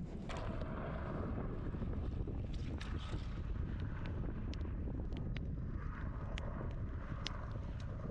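Wind buffeting the microphone in a steady low rumble, with scattered sharp crackles and pops from a wood campfire.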